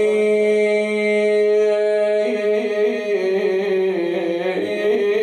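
A man's voice chanting a line of Arabic elegy poetry in a slow, drawn-out melody, holding one long note for about two seconds before the pitch begins to move in short turns.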